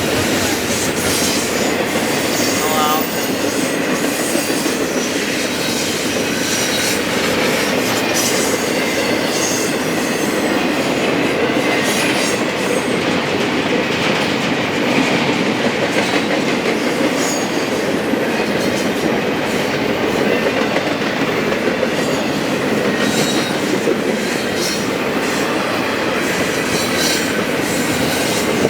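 Freight train cars rolling past at steady speed: a continuous rumble of wheels on rail, with frequent clicks as the wheels cross rail joints.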